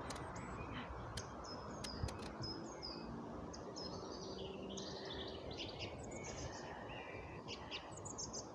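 Several birds chirping and twittering in short, overlapping calls over a steady low background noise.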